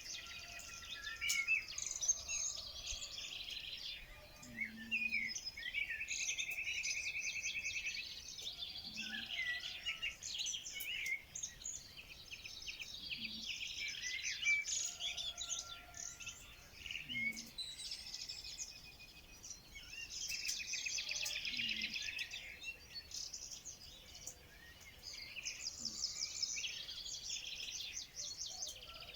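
A chorus of several songbirds singing and calling at once: overlapping fast trills and chirps that never stop, with a faint low call repeating about every four seconds underneath.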